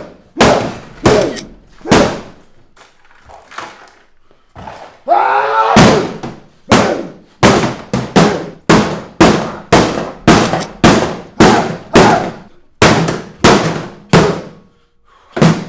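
A rapid series of heavy, sharp blows, about two a second, each ringing briefly; they break off for a couple of seconds early on and then resume at a steady pace.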